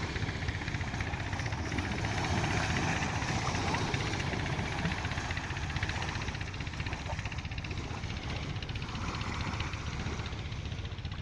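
Motorboat engine running steadily with a rapid low chugging, easing off slightly in level near the end.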